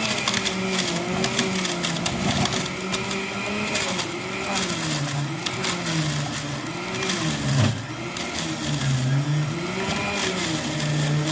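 Electric juicer motor running on beets and carrots, its pitch sagging and recovering over and over as the vegetables load it down.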